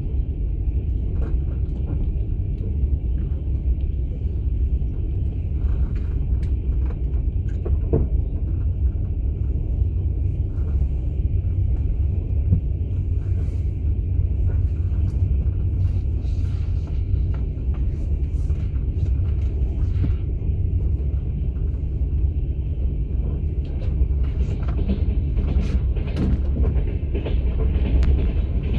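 Steady low rumble of a moving passenger train heard from inside a platzkart sleeper car, with scattered small clicks and rattles.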